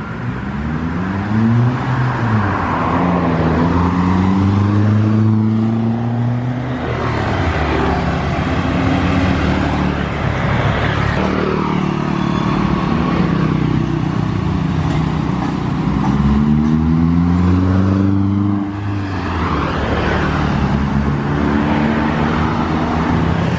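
Toyota Avanza 1300cc four-cylinder engine with an NDK DK-03v3 aftermarket muffler on the stock header and resonator, a deep full-bass exhaust note. The engine is revved or accelerated several times, its pitch rising over a few seconds and dropping back each time.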